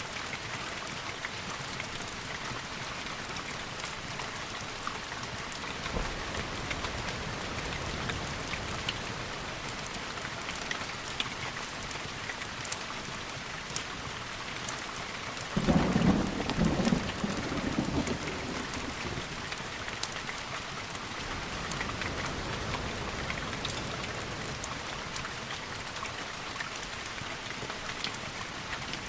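Steady rain hissing, with a thunderclap a little over halfway through: a sudden low rumble that lasts two or three seconds and then fades back under the rain.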